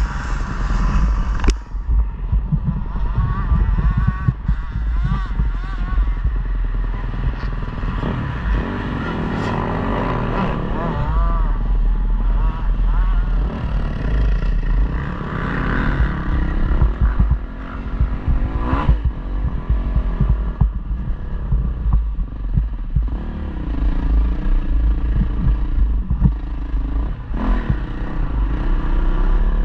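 KTM 250 motocross bike engine being ridden hard, its revs rising and falling again and again through gear changes and throttle on and off.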